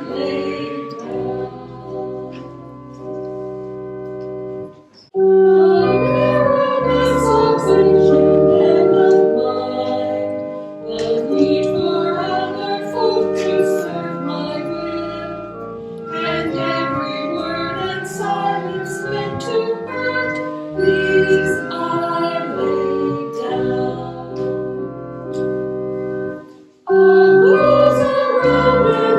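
Church music: voices singing a slow hymn over held organ chords, with short pauses between phrases about five seconds in and again near the end.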